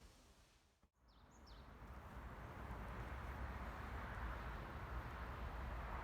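Outdoor ambience: a steady rushing hiss with a low rumble that builds up after a sudden break about a second in, and a couple of short, faint bird chirps.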